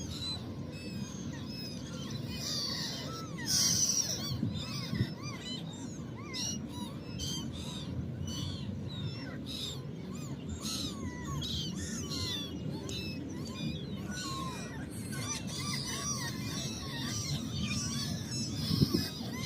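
Many birds chirping and calling at once, short rising and falling notes overlapping throughout, over a steady low rumble.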